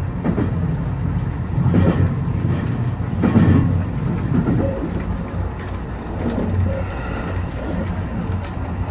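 Train running along the track: a steady low rumble with knocks of the wheels over rail joints now and then.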